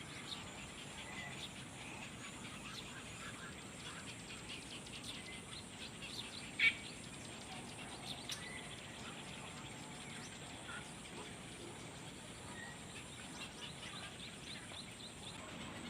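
Small birds chirping: a run of faint, quick, short chirps over a steady hiss, with one louder chirp a little before halfway.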